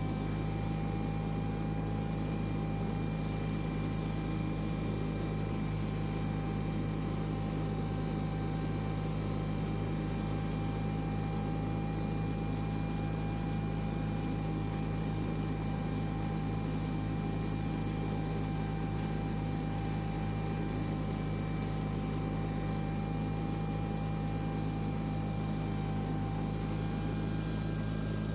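John Deere 318 lawn tractor's Onan twin-cylinder engine running steadily at constant speed while the mower mulches leaves, with a faint steady whine above the engine drone.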